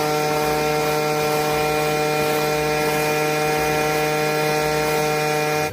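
A motor running at a steady speed: a loud, unchanging hum with a noisy rush over it, cutting off suddenly near the end.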